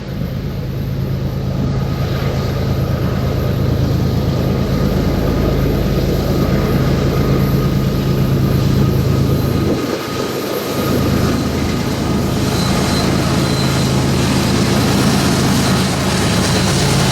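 Freight train with diesel locomotives running, a loud steady low rumble that dips briefly about ten seconds in.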